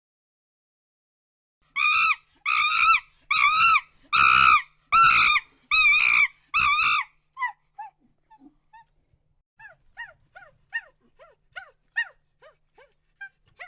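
An animal calling: a run of seven loud, evenly spaced high-pitched calls, then a string of softer, quicker, falling calls.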